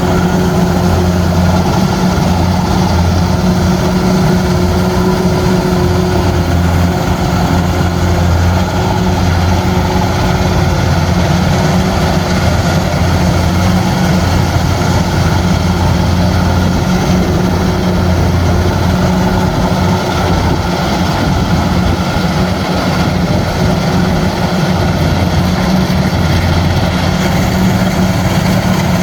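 Kubota rice combine harvester running steadily, its engine giving a constant low drone.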